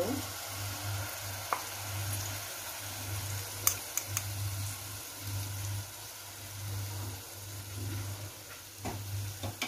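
Tomato, ginger and garlic puree being poured into hot oil and fried onions in a pan, sizzling steadily, with a few sharp clicks of a steel ladle against the pan. A low hum swells and fades underneath.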